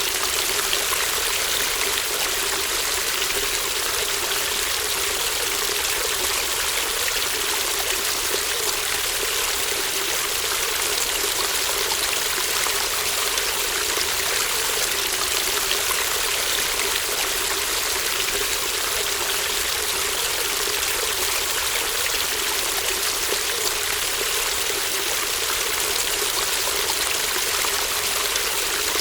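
A shallow brook babbling and trickling over stones, a steady dense water sound with fine splashing texture and no breaks.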